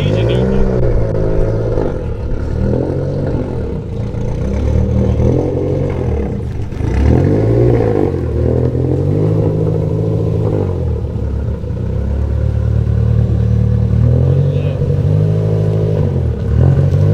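A car engine being revved over and over, its pitch climbing and dropping back every second or two.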